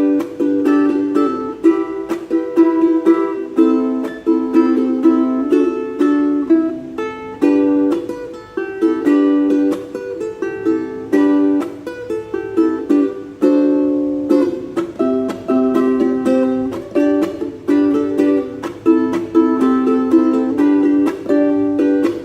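Ukulele playing an instrumental tune, a steady run of plucked notes and chords.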